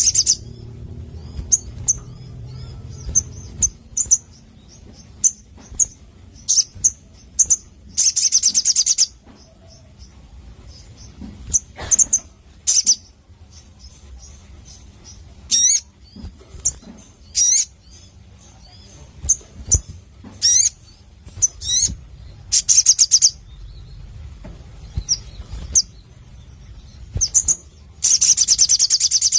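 A spiderhunter (sogon) calling: sharp, high chirps repeated at irregular intervals, broken by a few rapid trills and quick rising whistles.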